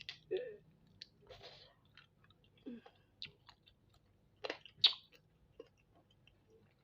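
Close-miked mouth sounds of someone eating spicy chicken feet: wet chewing, sucking and small clicks and crackles, with two sharper snaps a little before the five-second mark.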